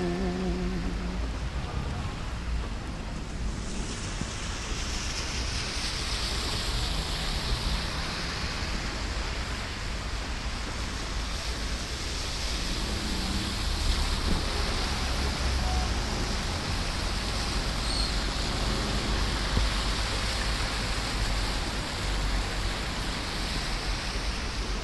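Heavy rain pouring steadily, a dense hiss that thickens a few seconds in, with a low rumble underneath.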